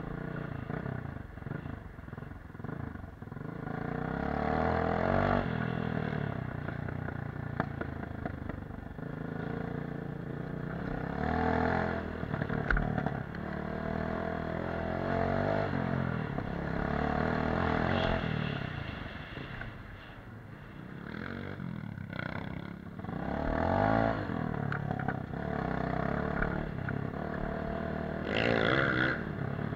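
Dirt bike engine ridden off-road, the revs climbing and dropping back several times as the throttle is opened and closed.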